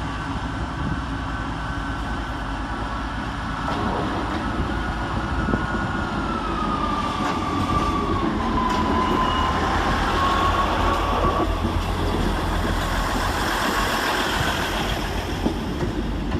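Class 158 diesel multiple unit pulling away under power, its engines and wheels running steadily and getting louder about four seconds in. A tone slides down in pitch around the middle and fades soon after.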